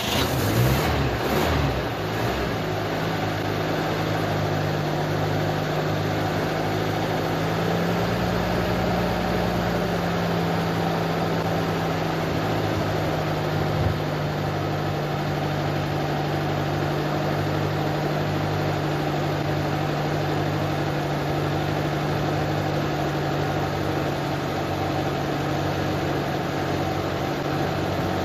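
UAZ engine catching on a hard cold start at −19 °C, after several months standing: it surges briefly, then settles into a steady idle. A single short knock sounds about halfway through.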